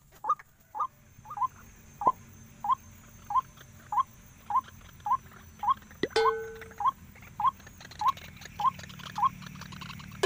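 White-breasted waterhen (ruak-ruak) calling: a short rising note repeated evenly, about one and a half to two a second. About six seconds in, a single longer, lower call sounds over the series.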